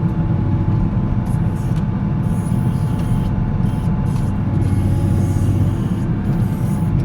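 Volvo L70C wheel loader's diesel engine running steadily as the machine drives along plowing snow, a constant low rumble with a faint steady whine above it.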